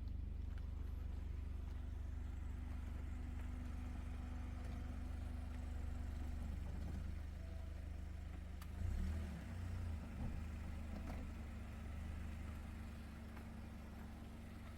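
Car engine idling with a steady low hum, with a couple of brief louder bumps about nine and ten seconds in.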